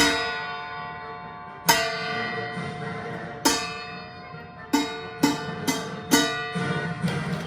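Metal kitchen pot or lid struck by hand, ringing after each hit, over recorded march music. The strikes are spaced out at first and then come about twice a second near the end.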